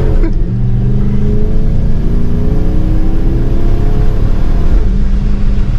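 The 5.7-litre Hemi V8 of a 2013 Dodge Charger R/T revving hard as the car slides on wet pavement. The revs dip just after the start, climb slowly for several seconds, then drop again near the end.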